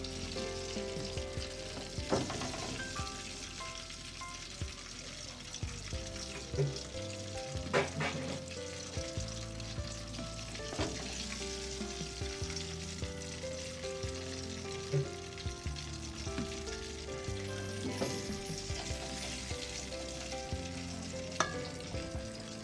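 Battered chicken pieces sizzling in hot oil in a metal pot, a steady frying hiss, with a few sharp clinks of a metal fork against the pot as the pieces are lifted out.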